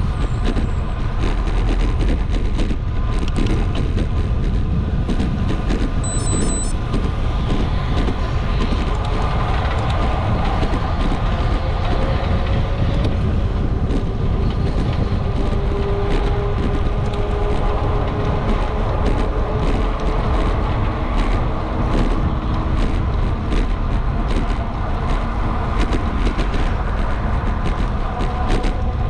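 Road traffic heard from a moving bicycle: steady rushing noise and a large truck's engine and tyres, with a slowly falling engine tone in the middle.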